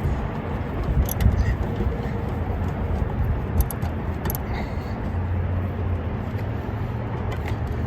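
Steady low outdoor rumble with a few light clicks and taps, about three in all, from parts and tools being handled at the engine bay.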